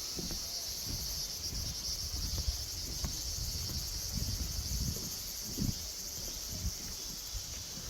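A steady, high, finely pulsing chorus of insects shrilling in the forest, with irregular low thumps underneath.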